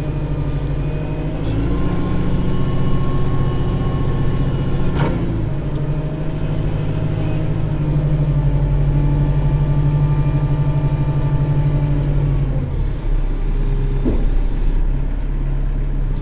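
Turbocharged Kubota tractor diesel engine running steadily. Its note shifts slightly a couple of times and drops about three-quarters of the way through. A high thin tone sounds for about two seconds near the end, and there are a couple of short clicks.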